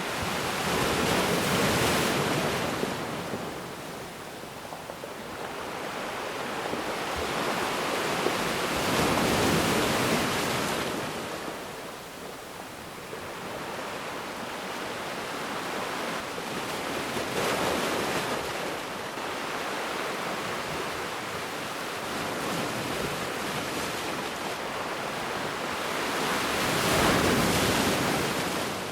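Ocean waves breaking on a beach: a continuous surf wash that swells and recedes, with four louder wave crests roughly every eight to nine seconds.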